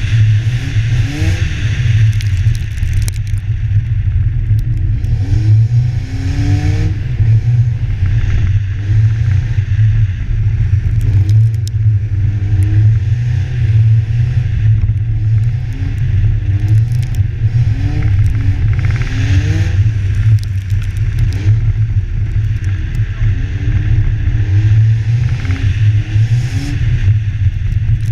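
BMW's engine revving up and down over and over as the car drifts on snow and ice, under a heavy wind rumble on the microphone.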